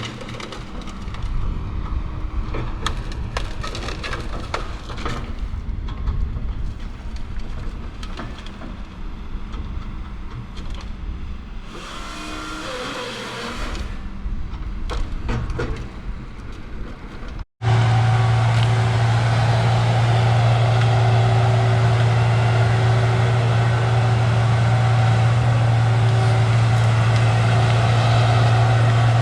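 A vehicle driving over a rough, muddy road, its rumble broken by frequent rattles and knocks. About two-thirds of the way through, the sound cuts off abruptly. A louder, steady engine drone with a low hum follows.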